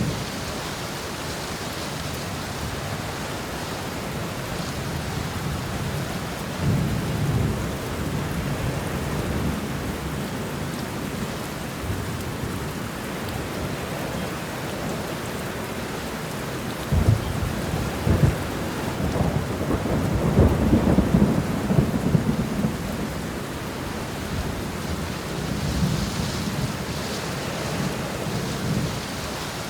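Steady rain falling through a thunderstorm. A low rumble of thunder comes about a quarter of the way in. A sharper thunderclap a little past halfway rolls into several seconds of deep rumbling, the loudest part.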